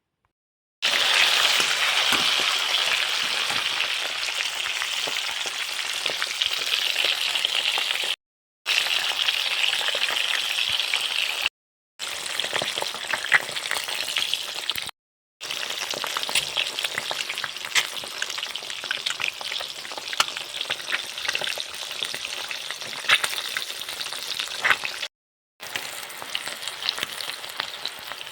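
Food sizzling as it fries in hot oil in a pan, loudest at first and then settling to a lower sizzle with scattered sharp pops. The sound drops out to silence for a moment four times.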